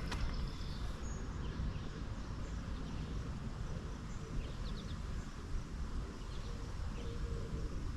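Outdoor ambience: a steady low rumble and hiss, with a few faint bird chirps about halfway through.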